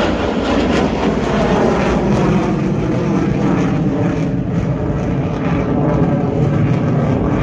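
Loud, steady engine noise of display aircraft flying past during an aerobatic formation display.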